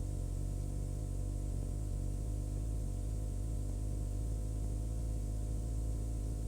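Cessna 140's piston engine and propeller running at full power during the takeoff roll: a steady drone made of several steady low tones.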